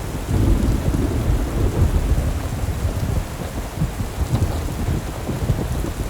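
Steady rain with a continuous deep, fluttering rumble underneath.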